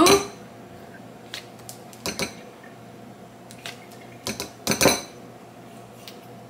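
Spoons knocking against a ceramic bowl while Greek yogurt is spooned in: a handful of separate light clinks and taps, the loudest about five seconds in.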